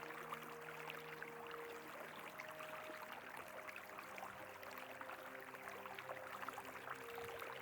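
Faint rush of flowing river water, steady throughout, with soft sustained background music tones held underneath that shift to new notes about two seconds in.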